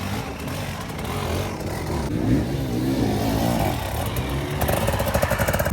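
Off-road motorcycle engine being ridden over rough ground, its revs rising and falling again and again as the throttle is worked.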